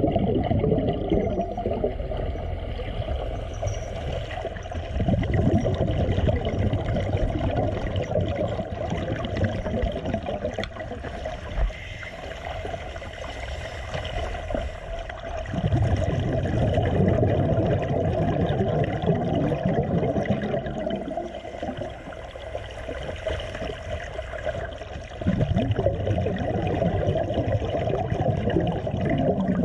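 Muffled rushing and bubbling water noise, low-pitched, swelling and fading in long surges every several seconds.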